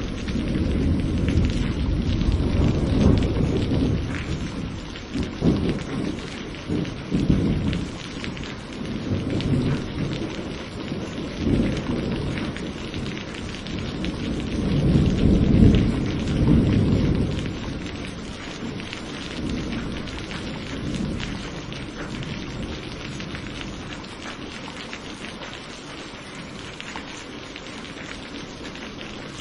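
Thunderstorm: steady rain hissing throughout, with a long roll of thunder rumbling in waves through the first half that peaks and then fades, leaving only the rain.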